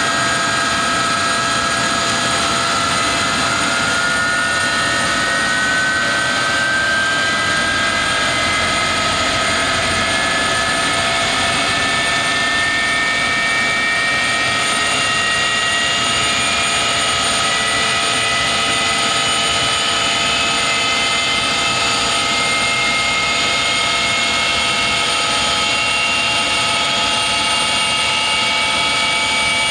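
Avro Vulcan bomber's Rolls-Royce Olympus jet engines running as a loud, steady roar. Several whines climb slowly in pitch over the half-minute as the engines wind up.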